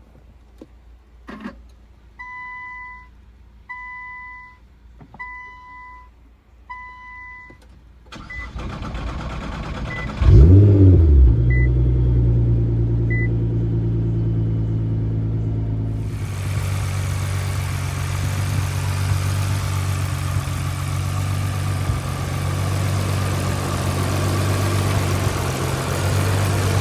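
A chime beeps four times, then a Nissan R35 GT-R's straight-piped twin-turbo V6 is cranked and fires about ten seconds in with a sharp flare of revs. It then settles into a loud, steady idle.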